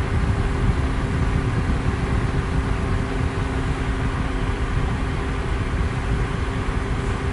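Electric fan running steadily, a loud even rush of moving air weighted toward the low end, with a faint steady motor hum underneath.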